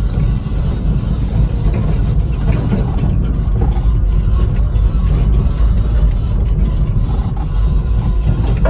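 Steady low rumble of a ride in a Zap XL electric mini truck driving over rough pasture ground; no engine note, only low, noisy shaking and rattling.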